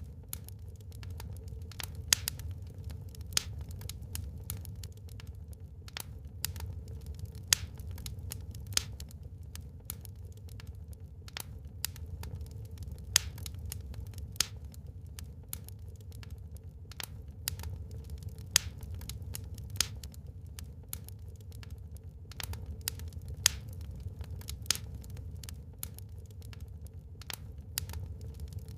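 Wood fire burning in a fireplace: irregular sharp crackles and pops, several a second, some much louder than the rest, over a steady low rumble.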